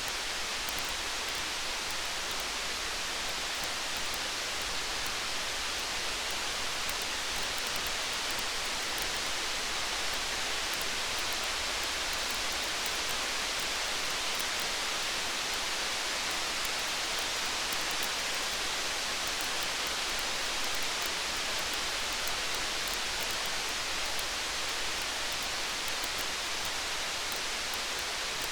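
Steady rain hiss with no let-up, mixed with faint scattered crackles from a campfire.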